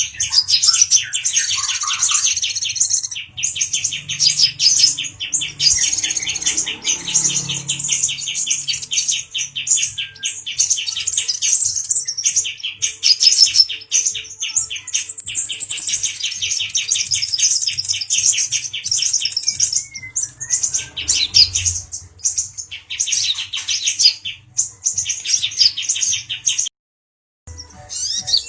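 Male brown-breasted kolibri ninja sunbird singing: long runs of fast, high-pitched trilling notes, broken by short pauses, with a brief gap of silence near the end.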